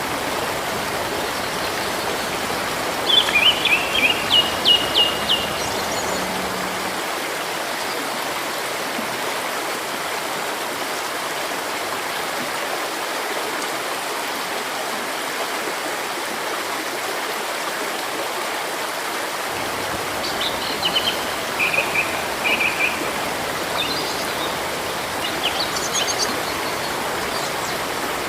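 Steady rush of flowing river water with small birds chirping over it: a quick run of repeated chirps about three seconds in, and scattered calls again in the last third.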